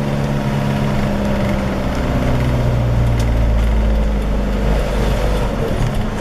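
Motor vehicle engine running steadily, with a deep low rumble that swells in the middle and eases toward the end, as on a climb.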